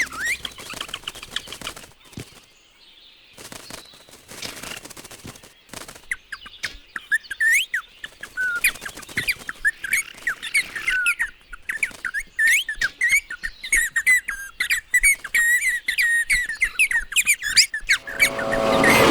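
Cartoon sparrows chirping and twittering, bird voices performed for the film: many short chirps gliding up and down, growing busier with quick high twitters in the second half. Near the end a loud mechanical whirring noise swells in.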